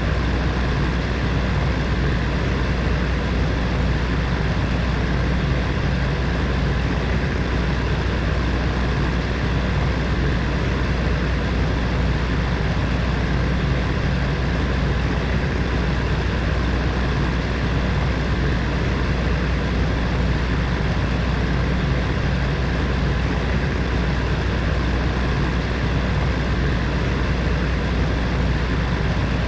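Heater fan running steadily: an even whooshing blow of air with a low hum under it, unchanging throughout.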